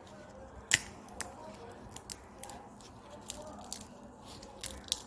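Fresh peanut shells being cracked and split open by hand: a string of irregular sharp cracks and snaps, the loudest about three-quarters of a second in.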